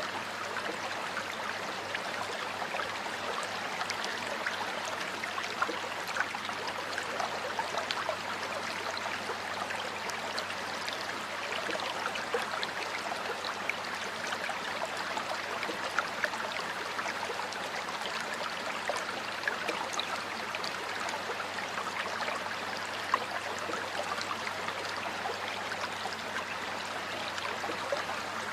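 Water flowing in a stream, a steady babbling rush flecked with many small splashes and gurgles.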